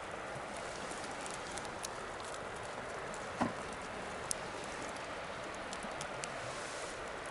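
Wood bonfire burning with a steady hiss and scattered sharp crackles and pops, the loudest pop about three and a half seconds in.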